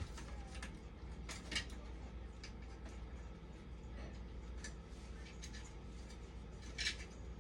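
Scattered small clicks and clinks of hard objects being handled, with louder ones about a second and a half in and near the end, over a steady low hum.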